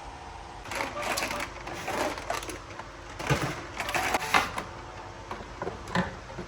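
Irregular clicks, knocks and rustling of objects being handled, the loudest knocks about three to four and a half seconds in.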